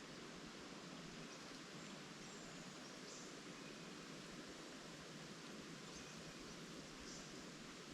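Faint, steady rustling of leaves in the wind, with a few faint, short, high bird chirps scattered through it.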